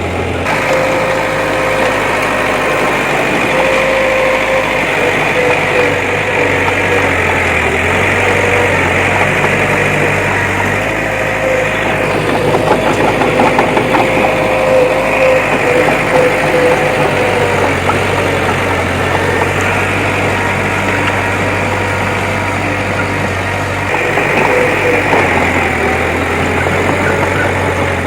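Diesel engine of heavy earthmoving machinery running steadily, with a wavering whine over it for most of the time. There is a stretch of rattling and clanking a little before the middle.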